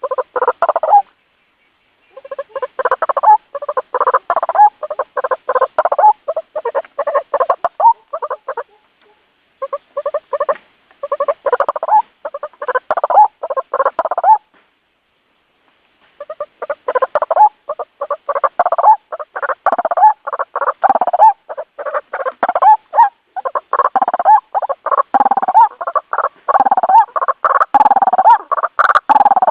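White-breasted waterhen calling: loud, rapid croaking calls repeated several times a second in long runs, broken by brief silences, growing denser with deeper notes toward the end.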